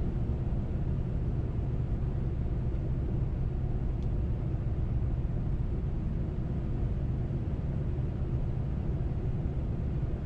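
2005 Mercury Grand Marquis's 4.6-litre V8 with a muffler delete (catalytic converters into an H-pipe only) while driving: a steady low exhaust drone heard from inside the cabin, with the air conditioning on.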